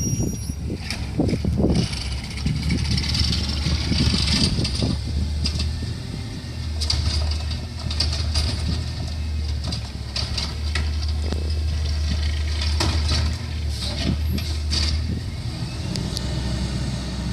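Garbage truck's engine running steadily at a low pitch, with spells of hissing and scattered clanks.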